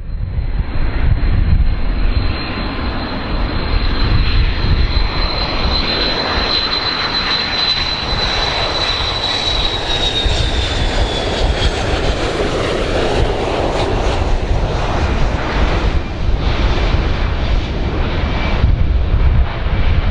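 Passenger airliner's engines during a landing: a loud low rumble with a high whine that holds steady, then falls in pitch about ten seconds in as the plane passes.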